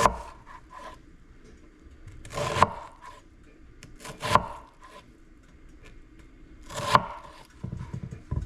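A knife slicing through a white onion onto a cutting board. There are about four slow cuts, a couple of seconds apart, each a short rasp that ends in a knock against the board.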